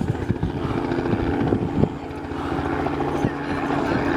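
Helicopter running, a steady drone of engine and rotor with scattered short knocks.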